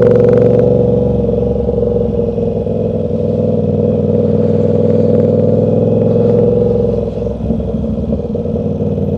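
Motorcycle engine running steadily under way, with a brief drop in level about seven seconds in, as when the throttle eases or a gear changes.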